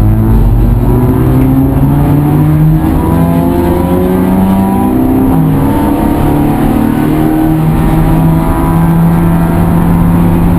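A vehicle engine pulling under load, its pitch climbing steadily. It drops briefly about five seconds in, as at a gear change, then climbs again.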